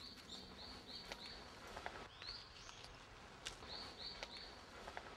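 Faint forest ambience: a small bird repeating short, high chirps that rise and then level off, in runs of several notes and single calls, with a few faint clicks.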